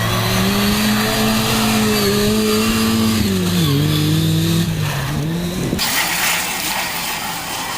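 Rally car engine running hard at high revs, its pitch dipping sharply and recovering twice in the middle as the driver lifts or shifts. About six seconds in the engine note drops away, leaving a loud even rushing noise.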